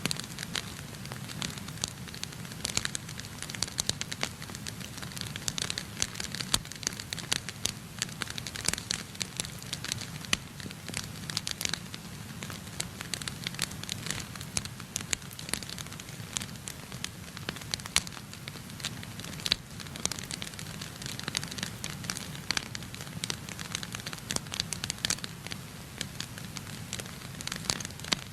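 Wood fire burning in a fireplace: irregular sharp crackles and pops throughout, over a low steady rumble of the flames.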